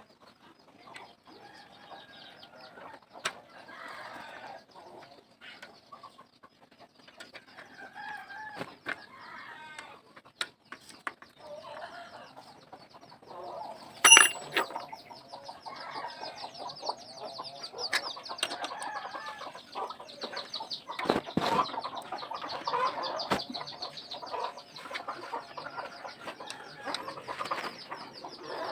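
Chickens clucking in short, irregular calls, with scattered sharp clicks and one loud knock about halfway through.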